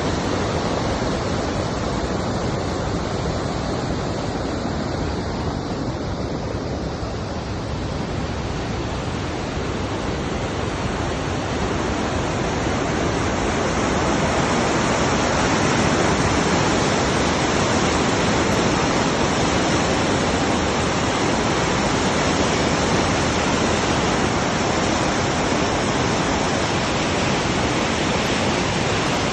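Swollen mountain river or floodwater torrent rushing, a steady loud wash of water that grows a little louder about halfway through.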